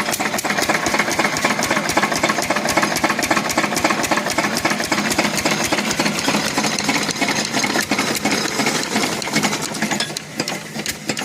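Engine running just after being started, with a rapid, even firing beat; it eases off a little near the end.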